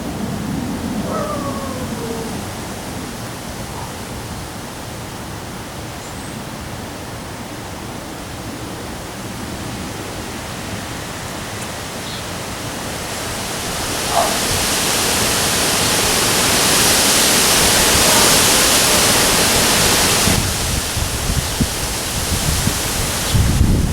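Steady hiss of storm rain and high wind. It builds to a louder hiss about 13 seconds in and drops off suddenly a few seconds later. Low wind rumble buffets the microphone near the end.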